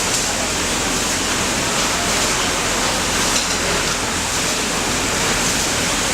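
Steady, even running noise of an automatic pattern sewing machine at work, with a faint low hum beneath.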